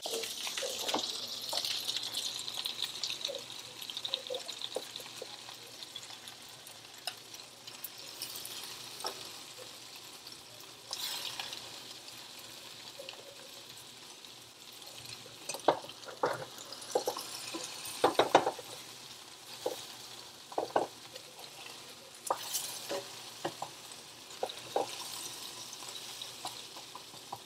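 Salmon patties frying in butter in a nonstick skillet, a steady sizzle. Scattered taps and scrapes of a spatula against the pan come through it as the patties are turned over.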